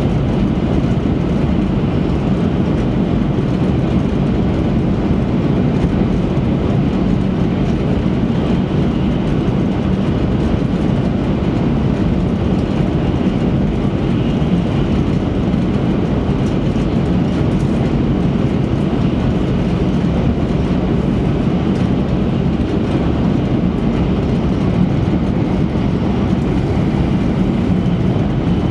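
Steady running noise of an E3 series Shinkansen travelling at high speed, heard inside the passenger cabin: an even low rumble that does not change.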